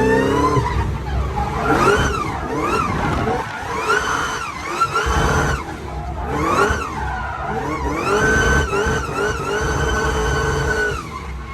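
Car engine revved hard over and over, its pitch climbing and dropping about once a second, then held high for a few seconds before cutting off near the end.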